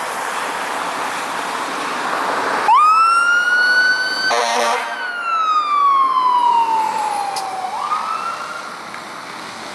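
Emergency vehicle siren over the steady rush of vehicle noise. Its pitch shoots up quickly a little under three seconds in and holds high, is cut across by a brief horn blast, then slowly winds down and shoots up again near the end before fading.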